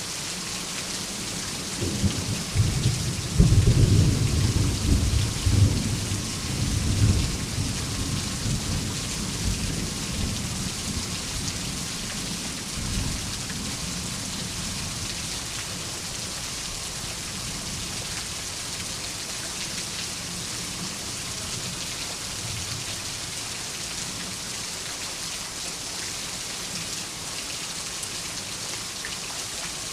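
Steady heavy rain with a rolling thunderclap: the low rumble builds about two seconds in, peaks a couple of seconds later and fades out over several seconds, then the rain hiss goes on alone.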